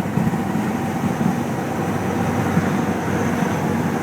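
Engine of a bonneted truck running steadily with a deep rumble, heard from inside the cab.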